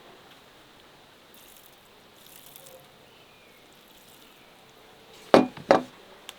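Two sharp clinks of cooking utensils knocking together, about a third of a second apart near the end, over a faint steady outdoor hiss.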